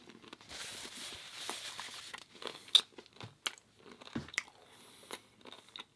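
Close-miked chewing of pizza, with a stretch of crunching near the start and then scattered sharp mouth clicks and smacks.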